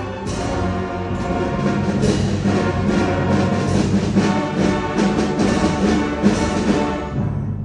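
Orchestral fanfare music led by brass, with timpani strokes, dying away just before the end.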